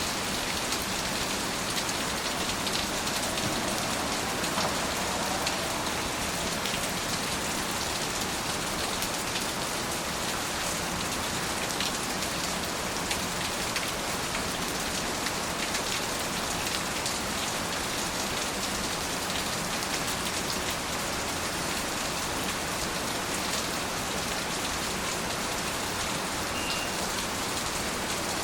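Steady rain falling, an even hiss sprinkled with small drop ticks, unchanging throughout.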